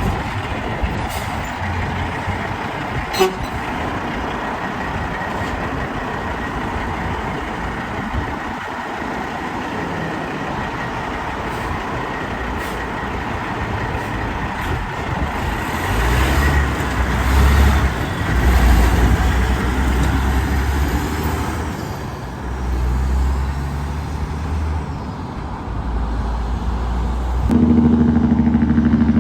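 Road traffic: vehicles passing, with the low engine rumble of a heavy truck growing loud about halfway through. Near the end it changes to a steadier engine hum.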